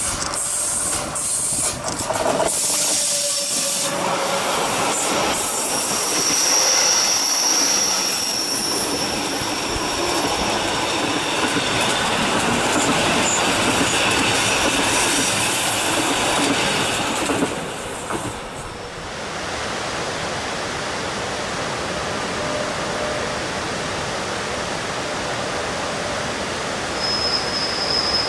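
Rhaetian Railway electric train coming out of a tunnel and passing close by on a curve, its wheels clicking over the rails in the first few seconds and giving a brief high squeal on the curve. About two-thirds of the way in, the sound drops to a more distant, even rumble of a Glacier Express on a stone viaduct, with another thin wheel squeal near the end.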